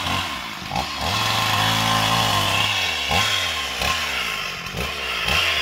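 Chainsaw running, revving up and dropping back again and again, held at high revs for stretches from about a second in.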